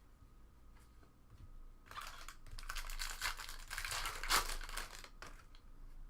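Foil wrapper of a trading-card pack crinkling and tearing as it is opened, starting about two seconds in and stopping about five seconds in.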